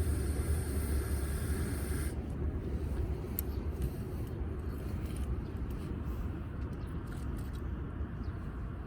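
Low wind rumble on the microphone, with a hiss that stops about two seconds in, followed by scattered light crackles from a wood fire.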